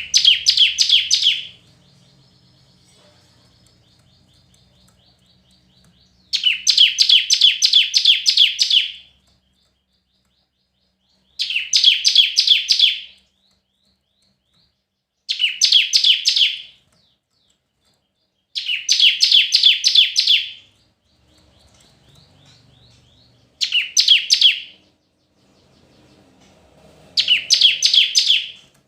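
Bar-winged prinia (ciblek) singing in repeated bouts: seven loud runs of fast, rapidly repeated high notes, each lasting one and a half to three seconds, with pauses of a few seconds between them.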